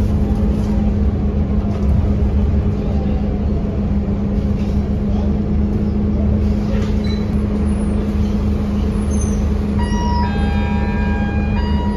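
Scania K230UB city bus's diesel engine running with a steady low hum and rumble. Near the end a set of steady electronic tones sounds, stops briefly and starts again.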